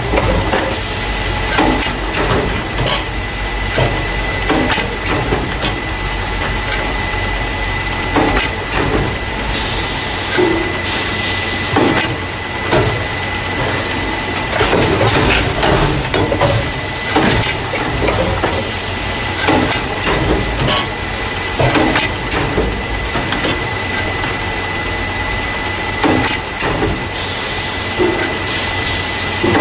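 Carton case packer running, the factory machine that loads paper juice and milk cartons into plastic crates: irregular clanks and clacks over a steady high hum, with a burst of hissing about a third of the way in and again near the end.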